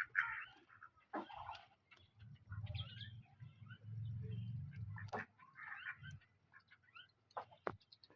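Hens and ducks feeding, making short scattered calls, with sharp pecking clicks throughout. A low rumble runs for about two and a half seconds in the middle.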